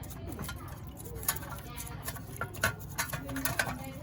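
Scattered light clicks and taps of metal parts and hand tools being handled on a workbench, a few sharper knocks among them, over a low steady hum.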